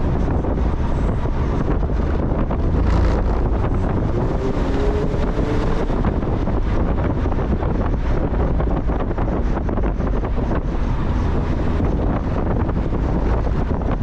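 Heavy wind buffeting on the microphone, with the steady noise of a Mazda Miata driving along.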